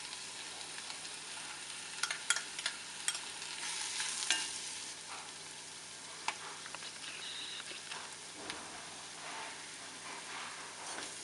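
Grated coconut and spiced shallots sizzling steadily in oil in a pan as they are roasted and stirred. A cluster of sharp spatula clicks and scrapes comes about two to four seconds in, and a few more follow later.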